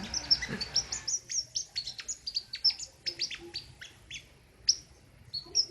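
Caged king konin songbird singing a fast run of short, sharp, high-pitched notes, each sweeping down in pitch, several a second with brief pauses; the hard, piercing calls keepers call 'besetan'.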